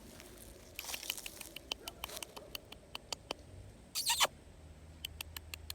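Footsteps crunching through dry grass, a string of irregular crackles, with one louder rustling crunch about four seconds in.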